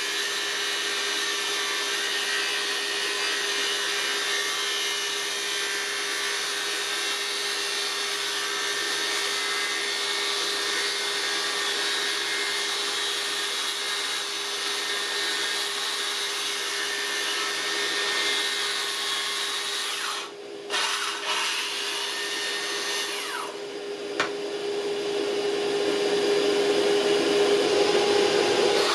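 An electric power tool's motor running steadily with a constant hum, its sound dipping briefly twice about two-thirds of the way through.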